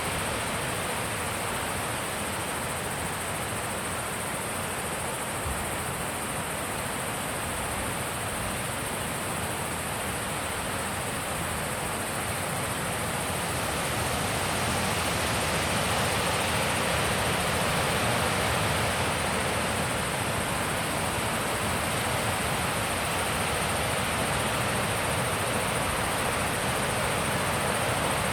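Wind blowing steadily in the open, as an even rushing noise that swells stronger about halfway through.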